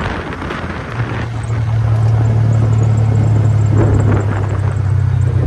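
An engine running steadily with a low, even hum that comes in about a second in and holds steady.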